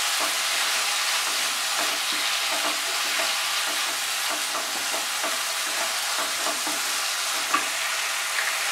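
Shredded chicken and masala sizzling steadily in a nonstick kadai over a high flame, with a wooden spatula stirring and scraping through it in repeated strokes.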